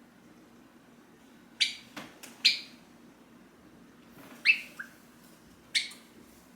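Java sparrow giving short, sharp single call notes: four loud ones spaced one to two seconds apart, with a few softer notes between.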